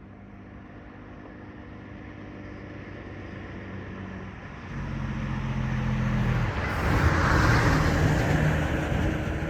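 A vehicle approaches and passes close by. Its noise builds steadily, with a low engine hum coming in about five seconds in, peaks about seven and a half seconds in, then begins to fade.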